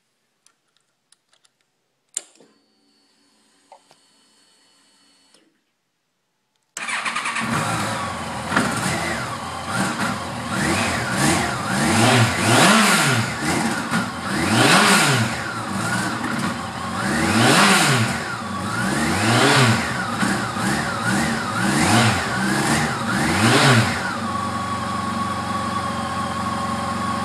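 Yamaha FJR1300 inline-four engine: a click and a faint whine as the ignition is switched on, then the engine fires up about seven seconds in and is blipped up and down about eight times with the throttle before settling to a steady idle near the end.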